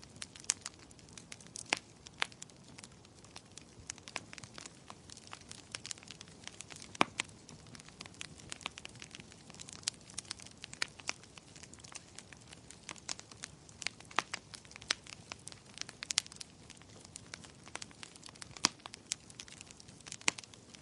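Wood fire crackling in a fireplace: a steady soft hiss under irregular sharp pops and snaps, a few of them louder than the rest.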